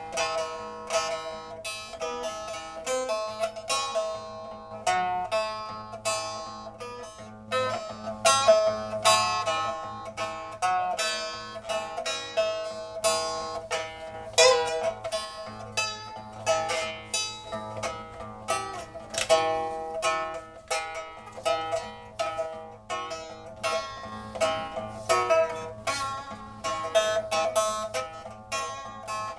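Music played on a plucked string instrument of the zither kind: a continuous run of short plucked notes, each ringing briefly, over a low steady hum.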